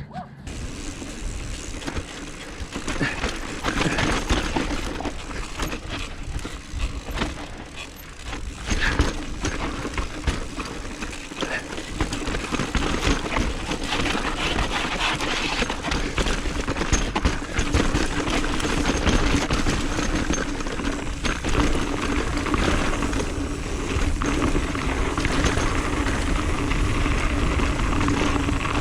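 Mountain bike descending a dirt trail: tyres rolling over dirt and rocks, with many short rattles and knocks from the bike. Steady wind rushes over the camera microphone throughout.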